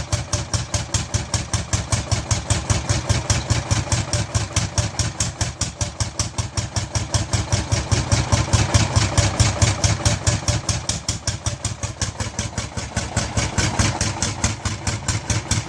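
Lanz Bulldog D3506's single-cylinder two-stroke hot-bulb engine running with its steady, even thumping beat of firing strokes, getting a little louder about halfway through.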